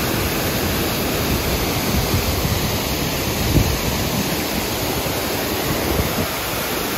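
Steady, even rushing noise with no distinct events, heaviest in the low end.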